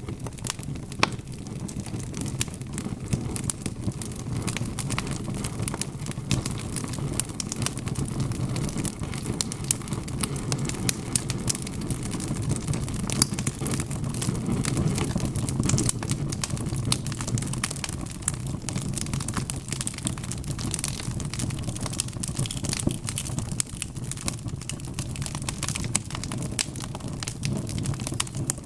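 Wood fire in a fireplace crackling, with frequent small irregular pops and snaps over a steady low rumble of the burning logs.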